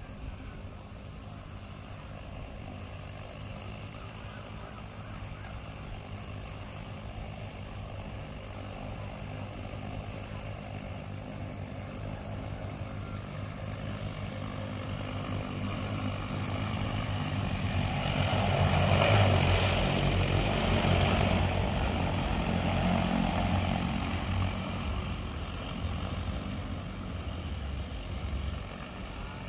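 Agricultural spraying drone's rotors buzzing as it flies past, growing louder to a peak about two-thirds of the way through and then fading.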